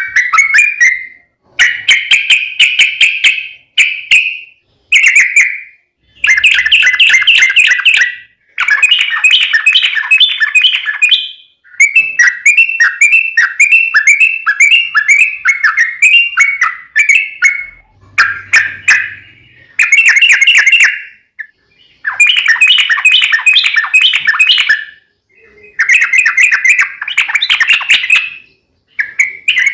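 Yellow-vented bulbul (trucukan) singing loud, fast bubbling phrases, each one to three seconds long with short pauses between them.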